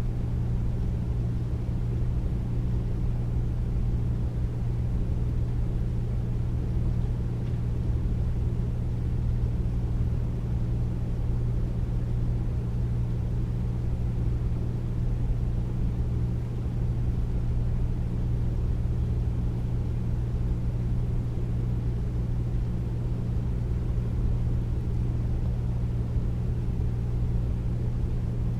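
Air conditioner running steadily: a deep, even hum and whoosh of air with no change in level.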